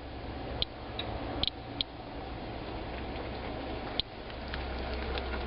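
Geiger counter clicking at an irregular, random rate, a few sharp clicks every second or two, over a steady low background rumble. It is reading rain wiped onto a cloth at about 90 counts per minute, which the reporter says is about double background.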